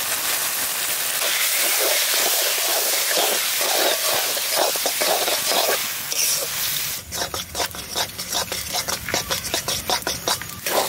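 A cabbage and fish ghonto sizzles and hisses in a metal karahi just after a watery rice-flour batter is poured in. From about seven seconds in, a spatula scrapes against the pan in quick repeated stirring strokes.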